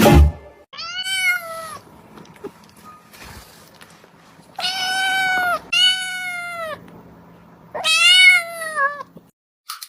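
A cat meowing four times, each meow a drawn-out call that rises and then falls in pitch; the first stands alone and the other three come close together a few seconds later.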